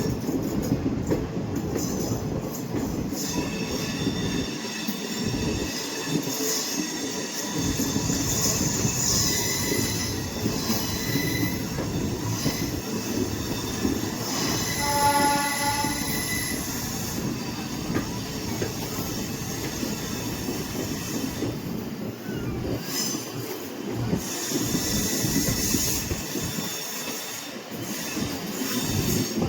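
Moving train heard from an open carriage door: a steady rumble of wheels on the track, with faint high squealing tones coming and going. About halfway through, a pitched tone is held for about two seconds.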